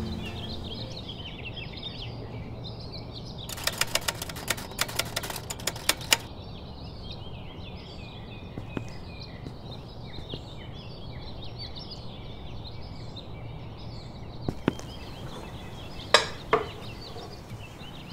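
Small birds chirping busily and continuously over a low steady background hum. About three and a half seconds in comes a quick run of sharp clicks lasting a couple of seconds, like typewriter keys, and near the end there are a few sharp knocks.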